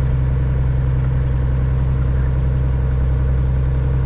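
Caterpillar 3406E inline-six diesel of a Freightliner FLD120 truck running at a steady low speed, a deep, even drone that holds the same pitch throughout.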